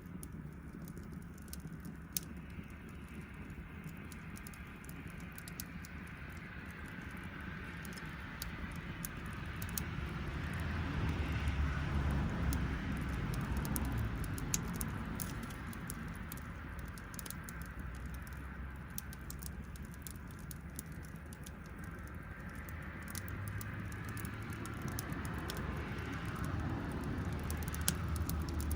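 Wood campfire crackling, with scattered sharp ticks and pops over a low rumble that swells twice, once around the middle and again near the end.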